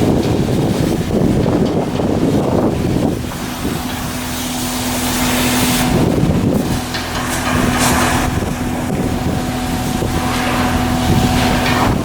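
Loud rumbling noise with a steady machine hum that sets in about three seconds in, and a few short knocks.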